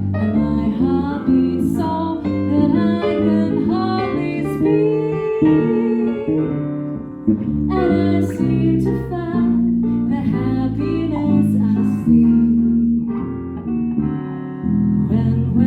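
Live jazz trio playing with the guitar to the fore, in a stretch of the tune where no lyrics are sung.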